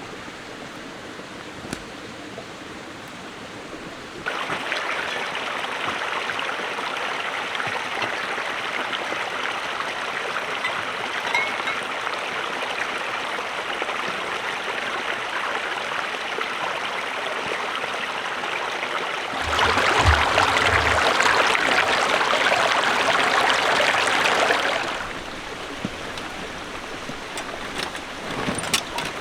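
Steady rushing of flowing water. It gets louder about four seconds in, louder again from about nineteen to twenty-five seconds, then quieter.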